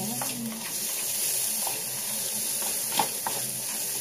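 Chopped onion and garlic sizzling in a little oil in a small non-stick wok, with a spatula scraping and tapping against the pan as it stirs them. The sharpest tap comes about three seconds in.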